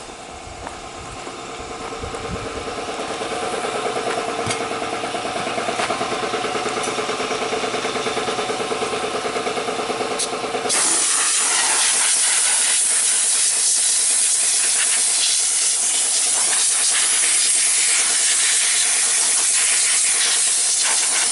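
An air compressor runs, building up. About ten seconds in, a compressed-air blow gun opens with a sudden, loud, steady hiss that keeps going, blowing hay chaff and dirt out of the truck's plugged air cleaner.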